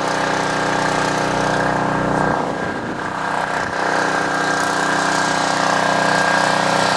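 Portable emergency generator's small engine running at a steady speed, with wind gusting across the microphone about two and a half seconds in.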